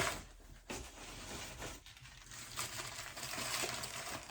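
Packing material rustling and crinkling as a crystal piece is unwrapped, with light clinks of stone set down on a hard surface.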